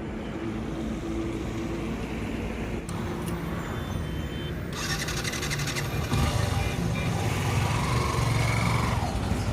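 Yamaha FZ v2 motorcycle's single-cylinder engine running on the road with road noise. Its note grows louder and rises from about the middle on as the bike picks up speed.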